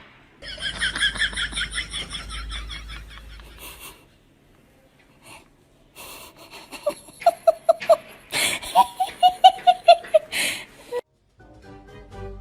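Several short bursts of rapid, pulsed laughter, cut together from separate clips; the first burst is very high-pitched, the later ones lower with about five pulses a second.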